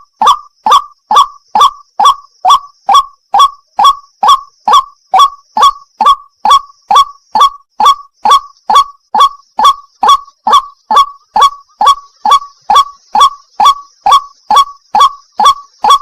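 White-breasted waterhen's 'wak wak' call, repeated very evenly at a little over two notes a second, each note a short upward-swooping 'wak'.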